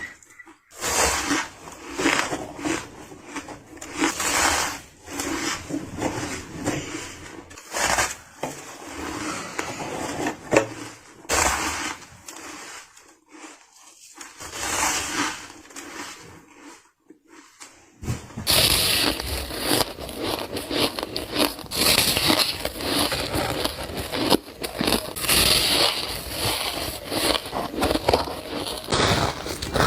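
Soft ice being bitten and crunched between the teeth. At first it comes in separate crunching bites with short pauses, then from a little past halfway it turns into near-continuous chewing.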